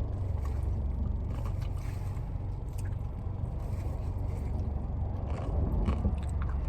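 Steady low rumble of a car heard from inside the cabin, with a few light clicks and rustles scattered through it.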